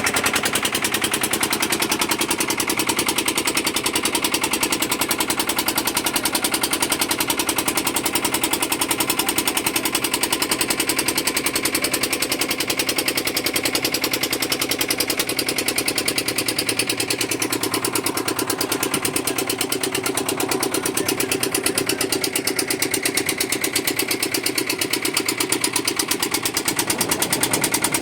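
An engine running steadily with a fast, even chugging pulse.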